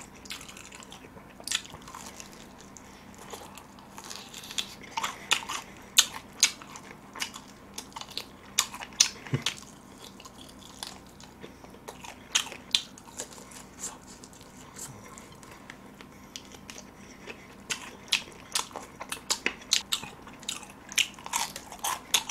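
Close-up biting and chewing of extra-crispy fried chicken: the batter crunches in irregular clusters of sharp cracks, with a quieter pause partway through.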